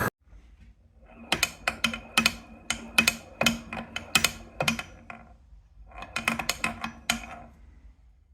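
Two runs of sharp, irregular clicks or taps, about three a second, with a short pause between them; each click carries a brief ring.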